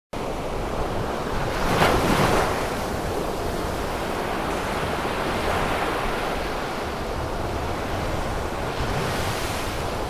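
Ocean surf: a steady wash of waves, with one wave breaking louder about two seconds in and another swell rising near the end.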